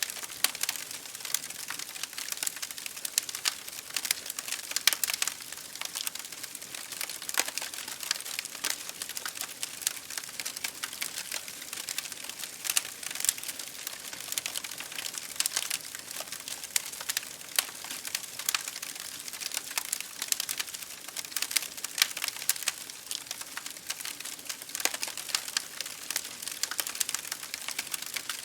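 Wood fire crackling in a fireplace: a dense, irregular stream of small sharp pops and snaps. Underneath is a steady hiss of rain falling against a window.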